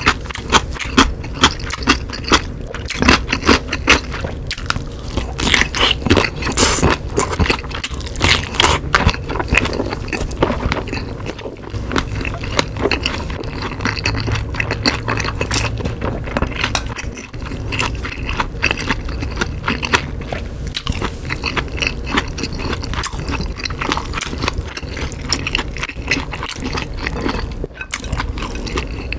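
Close-miked eating sounds: biting into and chewing a kielbasa sausage, a quick, uneven run of sharp, wet mouth clicks.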